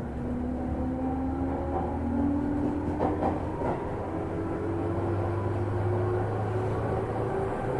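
Onboard running sound of a JR 205-series electric train, heard from inside a motor car with external-fan traction motors. The motor whine climbs steadily in pitch as the train gathers speed, over a continuous wheel-and-rail rumble, with a few clacks about three seconds in.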